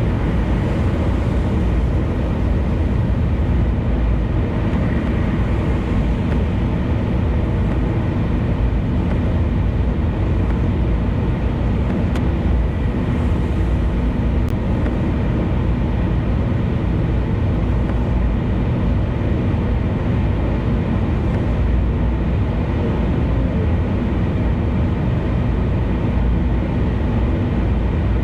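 Steady road and wind noise of a car cruising on an expressway, with a deep, even rumble.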